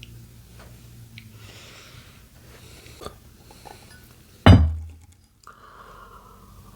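Light clinks and taps of tableware being handled, then one loud thump about four and a half seconds in. A faint tone glides down near the end.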